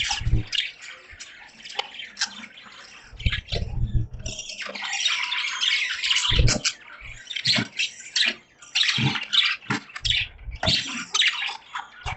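A flock of caged budgies chattering with rapid chirps and squawks. There is a rush of water-like hiss around the middle, and a few low thumps.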